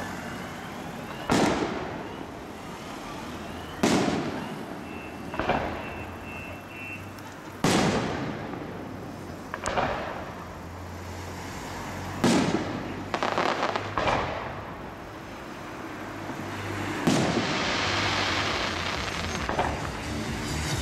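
Aerial fireworks shells bursting in a large display: about ten sharp bangs a second or two apart, each echoing briefly. Near the end one burst trails into a long crackle.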